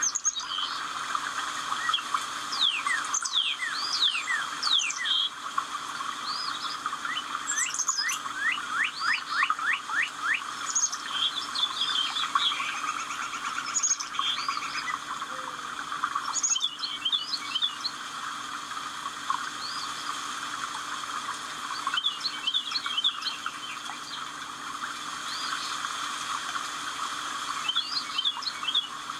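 Wild birds chirping and singing: repeated quick sweeping whistles and short trills from more than one bird, over a steady background hiss.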